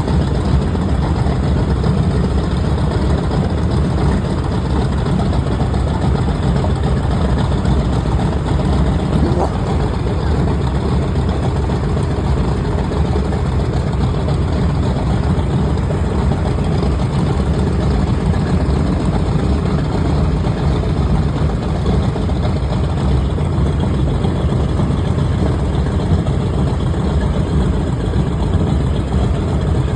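A TBM Avenger's Wright R-2600 twin-row radial engine running steadily during a ground check run.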